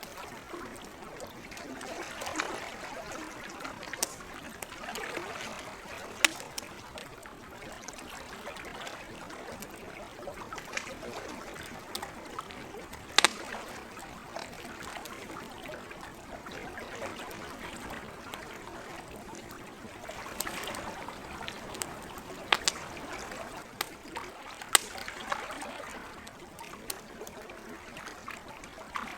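Lake water lapping and trickling at the shore in gentle swells, with a wood campfire crackling over it: scattered sharp pops, a few much louder than the rest.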